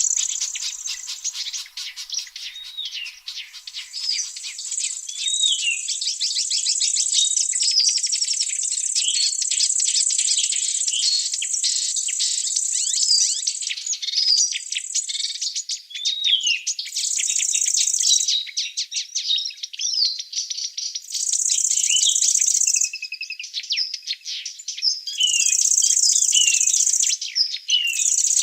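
Forest birds chirping with many short, quick notes over a high, continuous insect buzz, which near the end cuts out and comes back in bouts of a few seconds.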